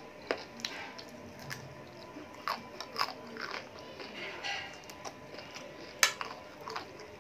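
A person eating close to the microphone with her fingers: biting and chewing, with sharp clicks and short mouth noises at irregular intervals, the loudest about six seconds in.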